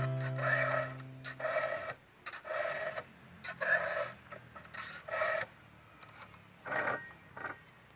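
Round file rasping across a chainsaw chain's cutters in short, separate strokes, about eight in all at roughly one a second, as the chain is sharpened by hand.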